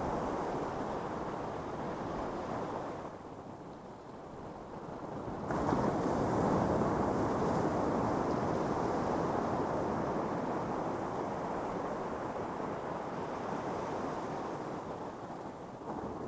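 Ocean surf on a beach: waves breaking and washing up the sand. A lull about three seconds in is broken by a wave crashing about five and a half seconds in, followed by a long rush of surf that slowly eases off.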